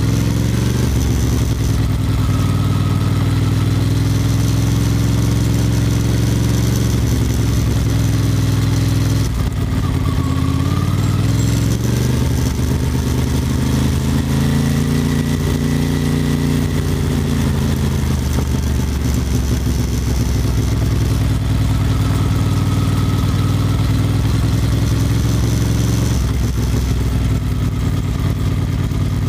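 Ducati Monster 620's air-cooled V-twin running under way on a gravel road, with wind and road noise over it. The engine note shifts pitch about a third of the way in and again near the end.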